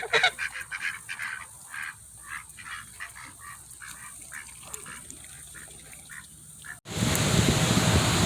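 Ducks and geese calling in a quick run of short quacks and honks that grow fainter. About seven seconds in, the sound jumps to a loud, steady rush of heavy rain and wind.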